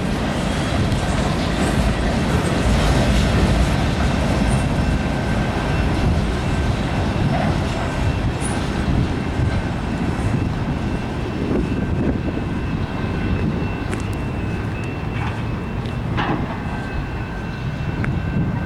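Canadian National freight train rolling past: a steady, loud rumble of wheels on rail, with faint high steady tones over it and a few sharp clicks in the second half.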